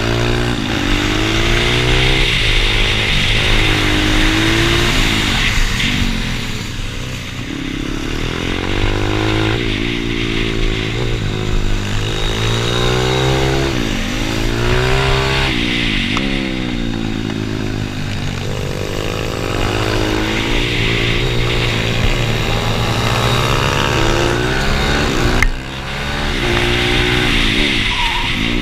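Pit bike engine running hard, its revs climbing and falling again and again as the rider opens and shuts the throttle through the run. The sound drops sharply for a moment near the end.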